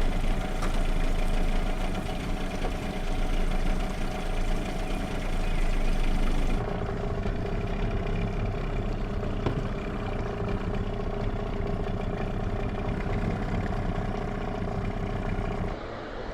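Boat outboard motor running steadily with an even engine hum and low rumble.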